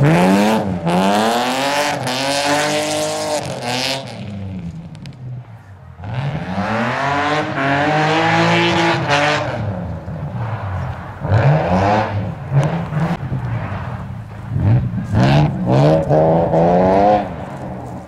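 BMW 325 coupe's straight-six engine revving hard, its pitch climbing through the gears and dropping sharply on lift-offs and shifts. It comes in several surges, fading briefly about four seconds in before building again.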